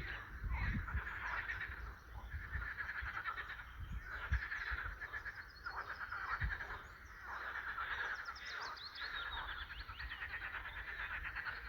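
A chorus of frogs croaking in repeated pulsed trills, with birds chirping high above them and occasional low thumps.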